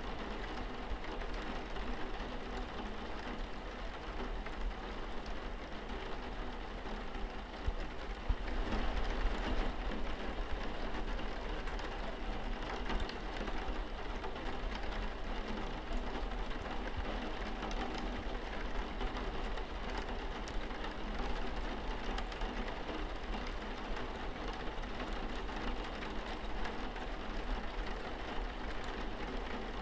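Steady rain falling on window glass, an even hiss with a low rumble beneath, a little louder from about a third of the way in.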